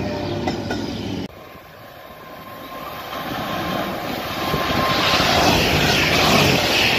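Silver intercity multiple-unit train passing along the platform. The sound cuts off abruptly about a second in. A second train then approaches, growing louder with a steady high whine, and rushes past at speed with a loud hiss and rumble of wheels and air.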